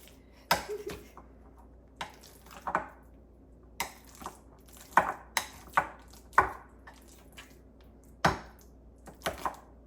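A utensil knocking and clinking irregularly against a bowl, about a dozen sharp strikes, some ringing briefly, while ripe bananas are mashed.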